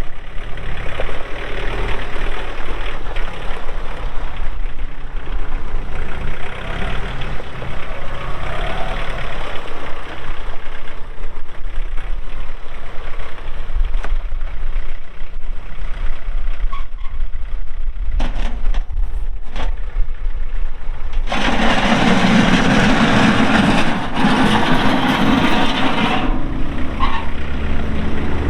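John Deere 4044M compact tractor's diesel engine running steadily as the tractor is operated, growing clearly louder for a few seconds about three quarters of the way through.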